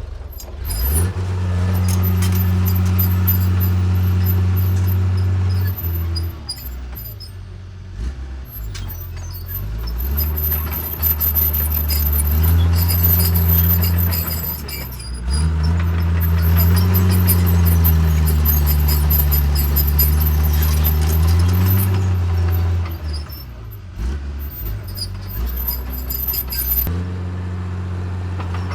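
Diesel engine of a Caterpillar D3C bulldozer working, its engine note revving up and dropping back several times as it takes load pushing soil.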